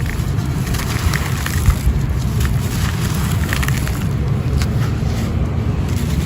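Red sand-cement stone chunks crumbling and crunching, with scattered small gritty crackles over a steady low rumble.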